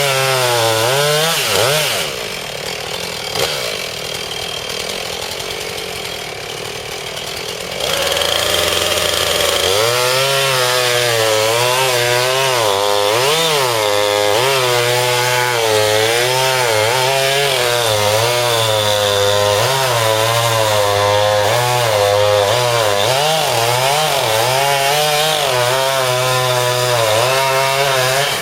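Two-stroke chainsaw cutting into a silver fir trunk, its revs rising and falling as the chain bites into the wood. The saw eases off for about six seconds, then goes back to full throttle and cuts on, its pitch wavering, until near the end.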